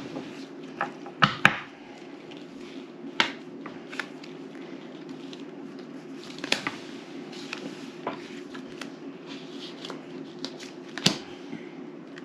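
Scattered sharp taps and clicks, a few seconds apart, over a steady low hum.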